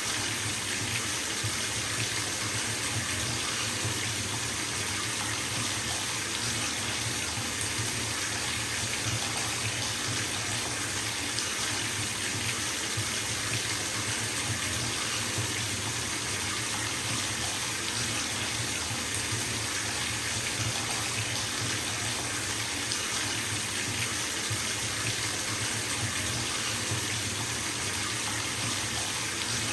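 Water running steadily from a bathtub tap into the filling tub, a constant splashing rush.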